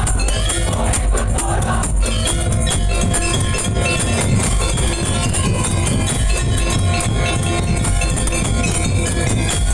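Madurese daul music: a percussion ensemble playing loudly and steadily, dense drumming with jingling tambourine-like percussion under a sustained melody.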